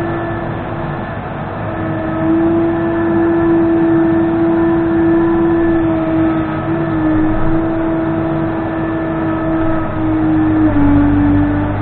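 Case 580N backhoe loader's diesel engine running steadily at working revs, its pitch dipping slightly about seven seconds in and again near the end.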